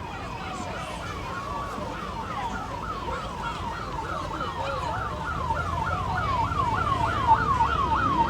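Emergency-vehicle siren in a fast yelp, its pitch sweeping up and down about three times a second and growing louder as it draws near, over a low engine rumble and street noise from a parade.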